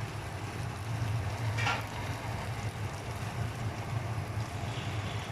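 Masala-coated chicken sizzling gently in a pan over a medium flame, over a steady low hum, with a brief sharper sound about one and a half seconds in.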